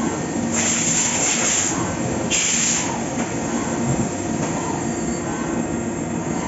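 A Fagima Jazz M 5-axis CNC milling machine running as it cuts a part, a steady mechanical noise with a low hum. Two loud hissing bursts come in the first three seconds.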